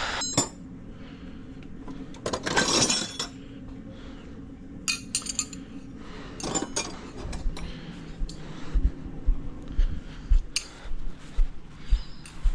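Metal clinks and taps of a spanner and tools working at the fender bolts. There is a short hiss a little over two seconds in, and a run of dull low knocks through the second half.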